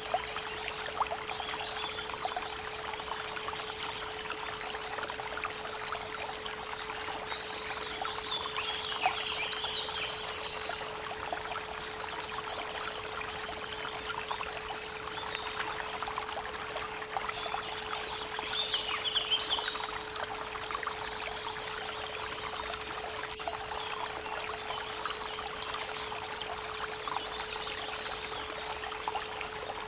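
Creek water running steadily, with a steady 432 Hz pure tone held underneath. Songbirds chirp over it in two bouts, about a quarter of the way in and again around two thirds of the way in.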